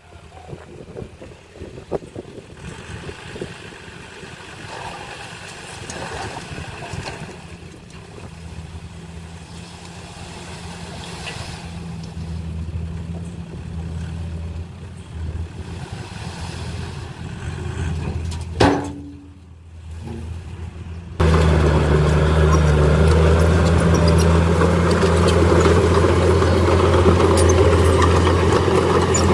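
Diesel engine of heavy earthmoving machinery running steadily, slowly getting louder. About two-thirds of the way through there is a short drop with a single click, then the engine is suddenly much louder and closer.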